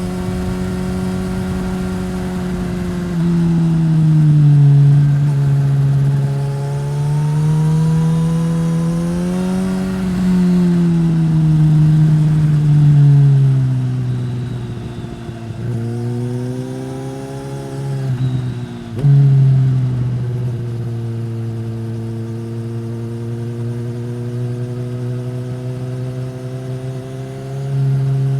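2015 Suzuki GSX-S1000's inline-four engine through a Yoshimura R-11 slip-on exhaust, heard while riding, its pitch rising and falling several times as the throttle is rolled on and off. There is a short break in the sound about two-thirds of the way through, and the pitch climbs again near the end.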